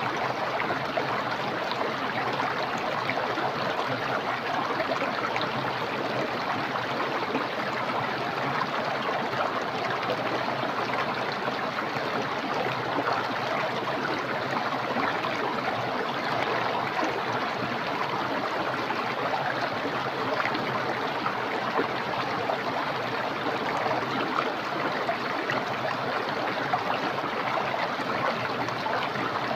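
Small, clear, fast-flowing stream: a steady rush and babble of running water that holds an even level throughout.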